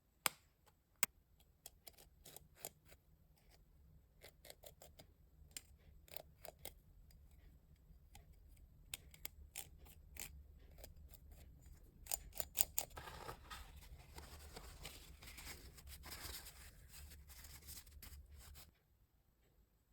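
Handling noises: a run of sharp clicks and taps, then rubbing or scraping from about 13 to 18 seconds in, over a low steady hum that stops shortly before the end.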